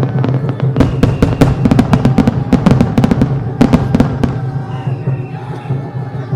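Starmine fireworks going off in a rapid volley of sharp bangs from about a second in until about four seconds in, over background music.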